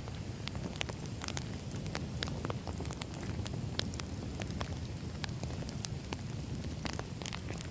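Wood fire burning: a steady low rumble of flames with frequent irregular pops and crackles from the burning logs.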